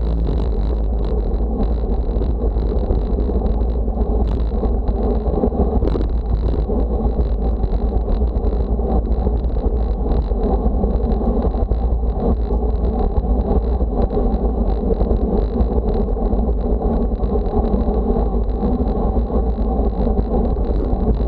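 Steady wind buffeting the microphone with a deep rumble and a constant rushing noise, as heard from a camera moving at speed on a windy day.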